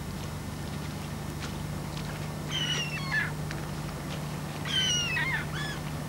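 Bird calls in two short bouts, each a quick run of falling notes, about two and a half and four and a half seconds in, over a steady low hum.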